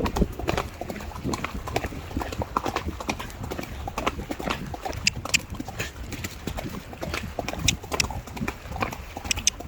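A horse cantering under a rider: a run of hoofbeats, sharp and irregular, over a steady low rumble.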